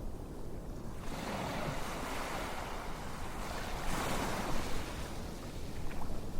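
Ocean surf: a steady low rumble of waves, with a wave rushing in from about a second in, loudest near the middle and washing away toward the end.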